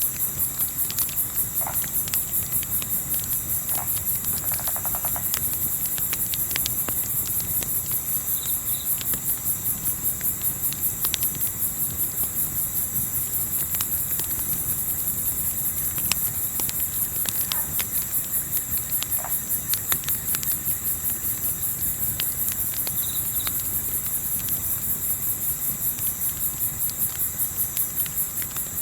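Night insect chorus of crickets, a steady high-pitched pulsing trill, over a campfire's scattered crackles and pops and a low rumble of wind. A few brief faint calls of distant wildlife.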